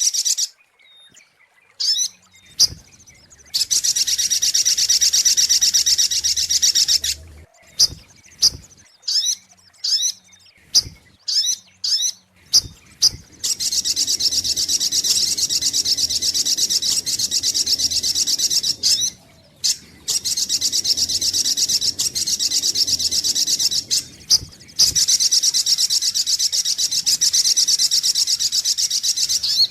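Sogok ontong (little spiderhunter) calling, played as a trapping lure. Long, very fast, high trills of several seconds each alternate with a run of short separate chips in the middle.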